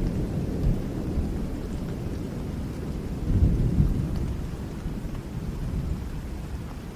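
Rolling thunder rumbling low over steady rain; the rumble swells about three and a half seconds in, then fades away toward the end.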